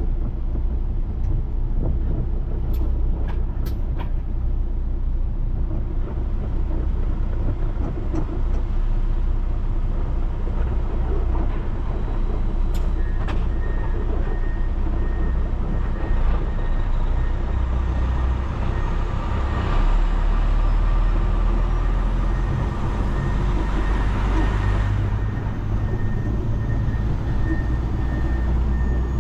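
Heavy diesel truck running down the road, heard from inside the cab: steady engine drone with road noise, swelling a little near the end. A faint steady whine comes in about halfway through.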